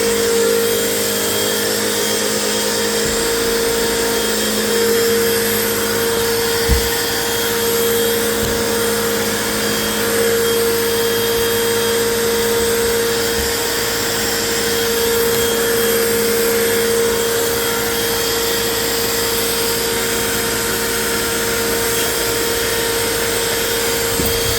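Vacuum cleaner running steadily on its hose attachment while sucking up dog hair: a constant whine over an even rushing noise. A few brief knocks sound through it, the loudest about seven seconds in.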